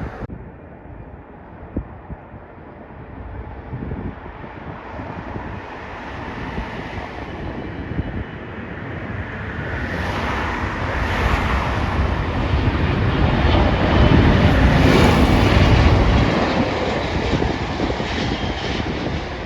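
Jet airliner on landing approach passing close by. Its engine noise swells over several seconds, is loudest about three-quarters of the way through, then fades as it goes past.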